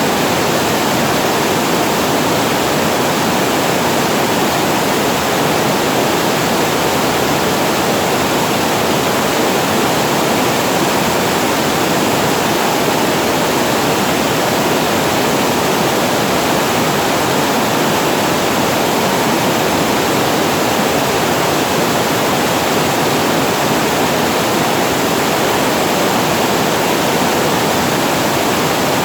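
Water pouring over a weir spillway, a steady, unbroken rushing of falling water.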